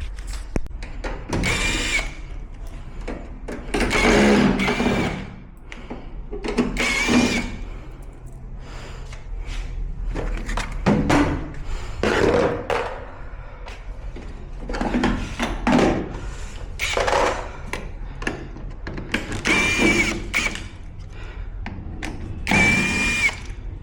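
Power drill running in short bursts of about a second, about ten times, with a brief whine in some of them.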